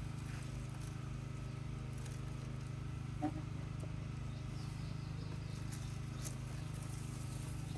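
Steady low background hum, with one faint click about three seconds in.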